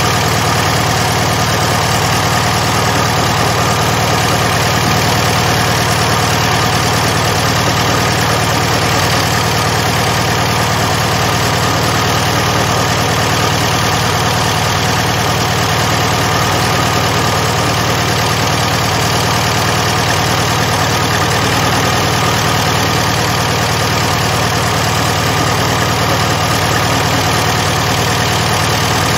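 Rebuilt Volkswagen Beetle 1300 air-cooled flat-four engine running steadily at an even speed, with no change in pitch or level.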